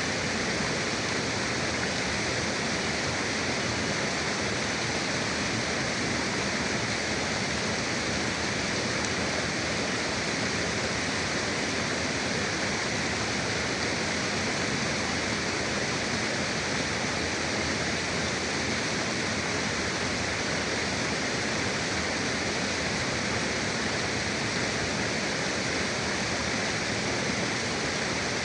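Forest river flowing: a steady, unbroken rushing of water with no distinct splashes or other events.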